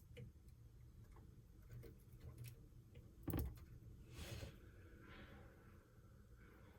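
Quiet room with faint scattered clicks and one louder knock about three seconds in, from small parts being handled.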